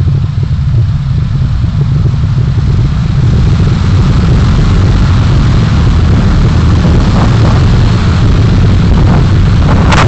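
Car driving in city traffic, heard by a dashcam in the cabin: steady low engine and road rumble that grows a little louder about three seconds in. A sharp knock comes at the very end.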